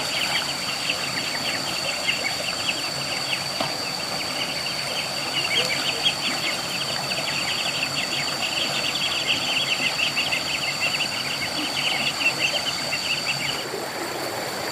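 Outdoor rural ambience: a steady high-pitched drone with rapid chittering above it, which stops about a second before the end.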